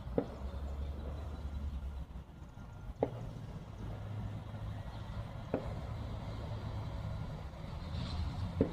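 Fireworks going off at a distance: four sharp bangs a few seconds apart over a low, steady rumble.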